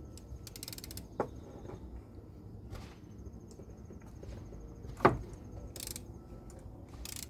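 Socket and ratchet being handled on the plastic oil-filter housing: a few scattered clicks and knocks, the sharpest about five seconds in, with brief rustles in between.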